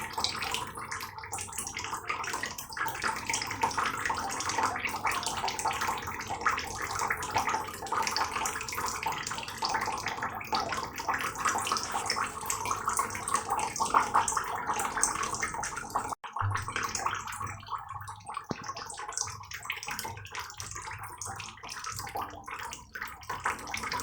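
Heavy rain falling steadily, a dense patter of drops. About two-thirds of the way through it cuts out for an instant and comes back a little softer.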